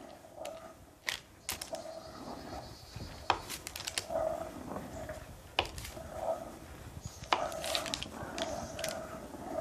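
Knife tapping on a wooden cutting board as butter is cut into pats, a few sharp knocks spaced irregularly, over the soft scrape of a wooden spoon stirring molasses syrup in an enamelled cast-iron pot.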